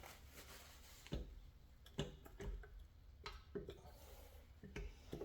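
Scattered light clicks and knocks of metal tools and engine parts, about half a dozen at irregular intervals, as a part is worked and pried at on a Ford 3.0L V6 during teardown.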